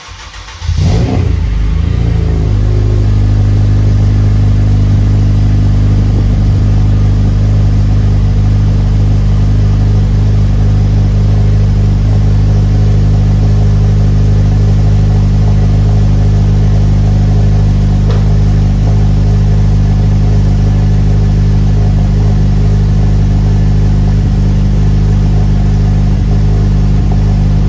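Acura TSX engine cold-starting through a 3-inch cat-back exhaust with two Vibrant mufflers, a resonator, no catalytic converter and a PLM header. The starter cranks briefly, the engine catches about a second in with a quick flare of revs, then settles into a steady high cold idle.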